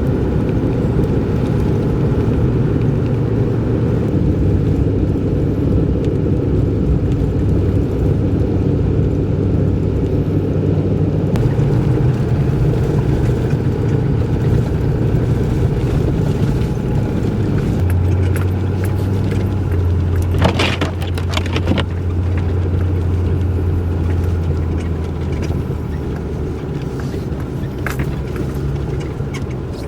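A vehicle being driven: a steady engine drone with road noise. The engine note shifts about a third of the way through and again past halfway, and a brief cluster of clicks or rattles follows soon after.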